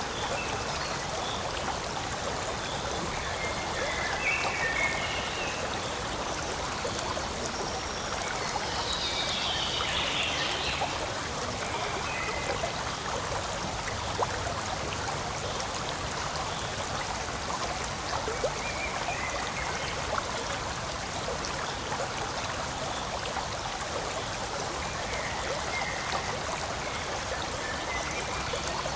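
Forest stream flowing and trickling steadily, with a few faint short higher calls over it now and then.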